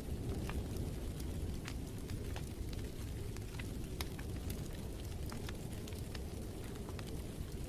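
Wood fire crackling in a fireplace: scattered sharp pops and snaps at irregular moments over a steady low rumble of the flames.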